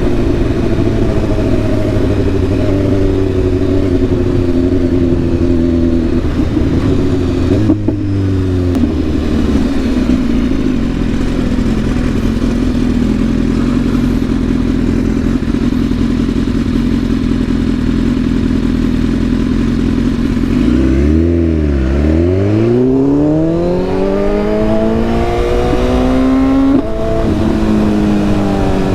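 Sport motorcycle engine heard from the rider's own bike, running at steady revs with a gear change about eight seconds in. Past two-thirds of the way the revs drop sharply, then climb in a long rising pull under acceleration, broken by a quick shift near the end.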